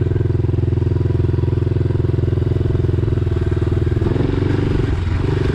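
Dirt bike engine running steadily, with a dense, even firing beat, shifting slightly about four seconds in.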